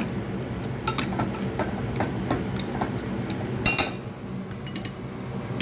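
A cooking utensil clinking and tapping against a pan as simmering chicken adobo is stirred, with scattered light knocks and a sharper one a little past the middle, over a steady low hum.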